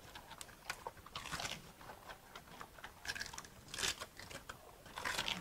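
Crunchy biting and chewing of food: irregular crackling crunches, a few louder bites near the middle and end.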